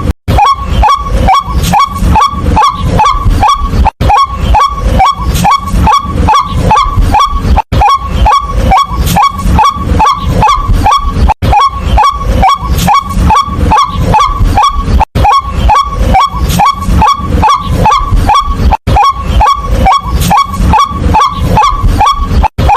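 White-breasted waterhen call: a fast, steady run of short, loud, downward-inflected 'kwak' notes, about two to three a second. Brief gaps every few seconds at exactly even spacing show a short recording played on a loop.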